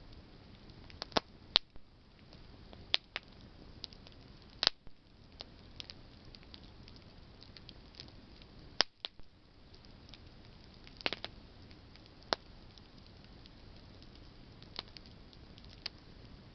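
Campfire of burning branches crackling: scattered sharp pops at irregular intervals over a low steady hiss, the loudest about a second and a half in and again near nine seconds.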